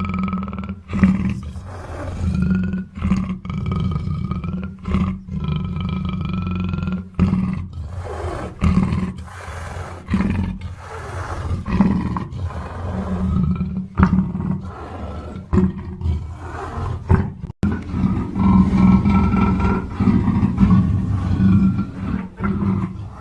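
Black panther roaring: a run of roars broken by short pauses.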